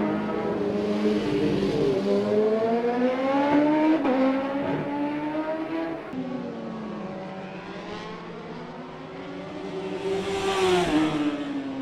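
Racing motorcycle engines revving hard at speed, several at once, their pitch rising and falling through the gears. One bike passes close and loud about ten seconds in, then fades away.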